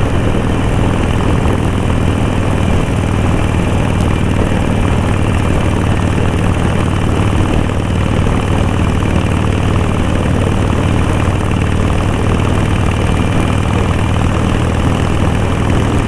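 Harley-Davidson Sportster's V-twin engine running at a steady road speed, with wind rushing over the helmet microphone. It holds one even drone with no revving or gear changes.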